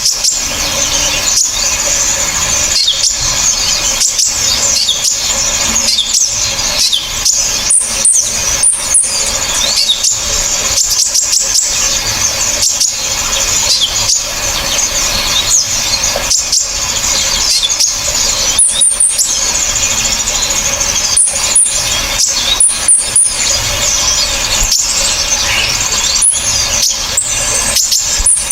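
Combined recording of several small songbirds singing sharp, shrill, rapid chirps and trills without pause, with clusters of short, very high notes repeated every few seconds.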